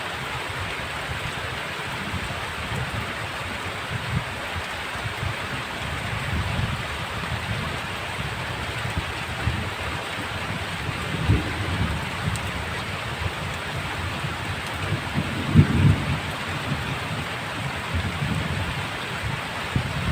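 Heavy rain falling steadily in a dense hiss, with low rumbles of thunder swelling and fading, loudest about eleven seconds in and again around sixteen seconds.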